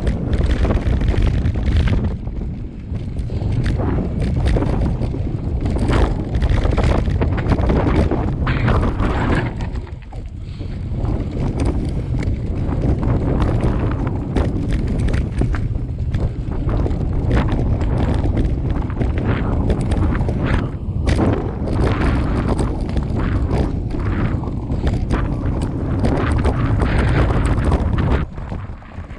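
Loud wind noise buffeting the microphone, a constant low rumble with scattered knocks and rattles, dipping briefly about ten seconds in.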